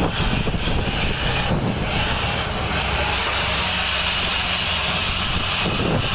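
Heavy truck running on the highway: a steady low engine drone under a continuous hiss of tyre and wind noise, the drone dropping away near the end.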